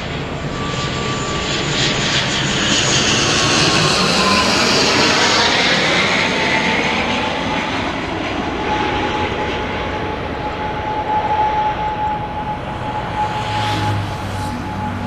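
Airliner engines as the plane passes the runway side, building to loudest about four to six seconds in, with a whining tone that drops in pitch as it goes by.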